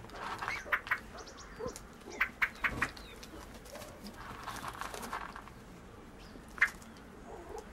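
Birds giving short, sharp click-like calls, singly and in quick pairs, with a soft rustling in between.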